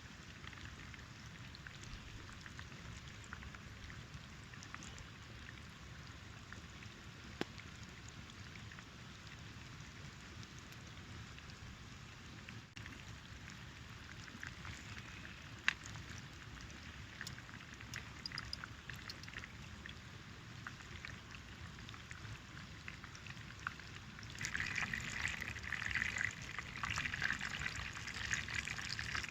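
Hot frying oil sizzling with a steady hiss and scattered crackles, growing louder and busier about 24 seconds in.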